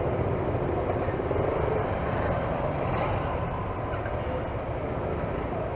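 Motorcycle running steadily on the move, its engine sound blended with a rush of wind and road noise.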